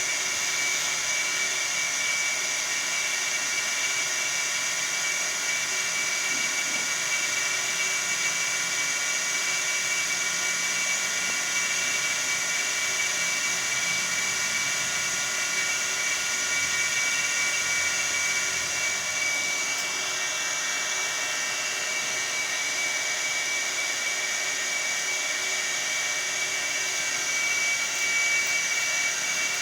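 A small motor giving a steady high-pitched whine.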